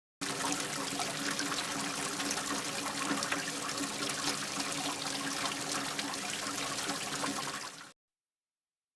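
Water trickling and pouring steadily, with a faint steady hum underneath. It starts abruptly and fades out quickly shortly before the end.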